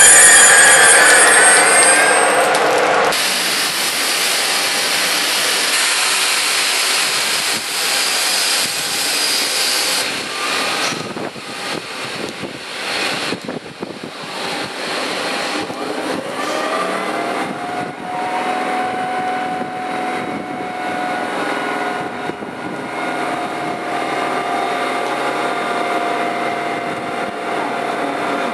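TGV Duplex high-speed train moving slowly along the platform: high wheel squeal for the first couple of seconds, then a steady hiss and hum, with a motor whine that rises about halfway through and then holds steady.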